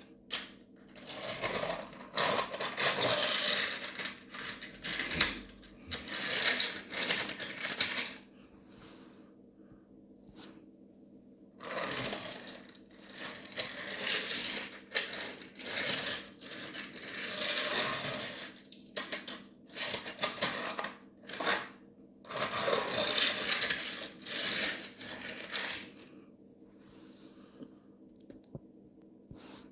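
Small die-cast Thomas toy trains pushed along toy track, their wheels and bodies rattling in runs of a second or two with short pauses between.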